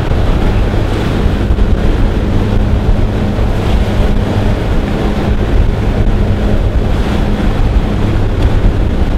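Aircraft engines droning steadily with a heavy rush of wind buffeting the microphone, as at an open jump door in flight. A low, even hum runs under the wind noise.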